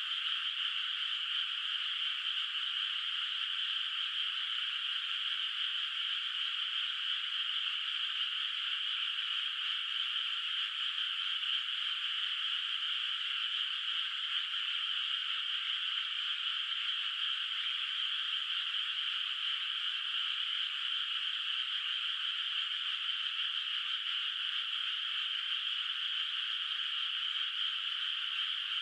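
A dense chorus of frogs calling, a steady unbroken high-pitched wash in which no single call stands out.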